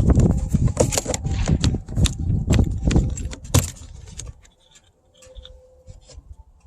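Clicking, knocking and rattling of car door trim parts being handled and fitted, busy for about four seconds and then dying down to a few faint ticks.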